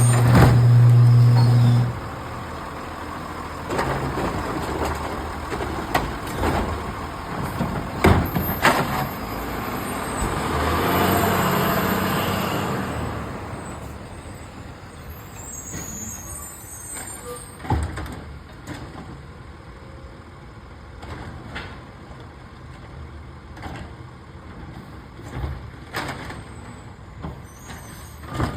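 Garbage truck at work: its engine running, with a swell of noise about ten seconds in and sharp clanks and bangs scattered through.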